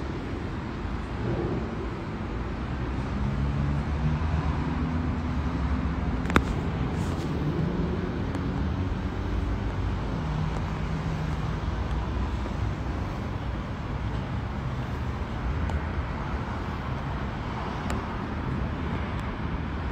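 Steady low rumble of vehicle noise around a city transit station, with faint murmuring bands and one sharp click about six seconds in.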